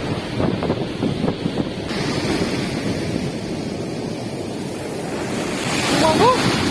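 Sea waves breaking and washing up the beach, with wind buffeting the microphone. The surf swells louder near the end.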